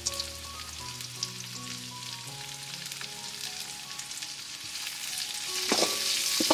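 Sliced onions and ginger-garlic sizzling in hot oil in an iron wok. Near the end the frying grows louder as a metal spatula stirs, with a couple of sharp scrapes against the pan.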